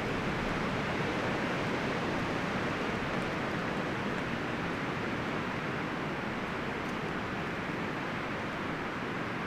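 Wind blowing through forest trees, with a steady rustling rush of leaves and branches.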